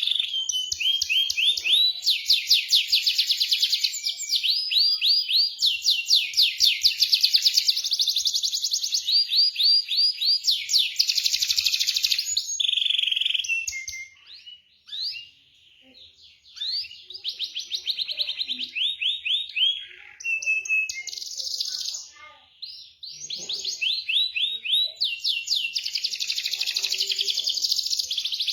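Domestic canary singing long, fast rolling trills, phrase after phrase of rapidly repeated high notes, with brief pauses about halfway through and again about two-thirds through.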